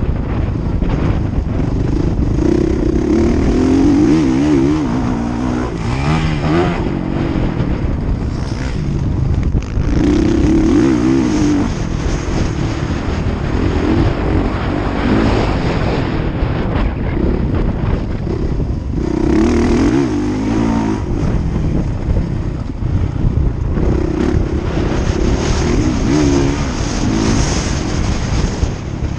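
Motocross motorcycle engines revving and changing pitch as the bikes ride the track. Louder surges come every several seconds as bikes pass close, over a steady engine noise from others further off.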